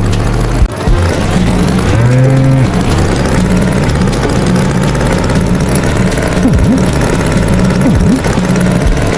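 A single short moo about two seconds in, from a cartoon bull, over a steady tractor engine rumble.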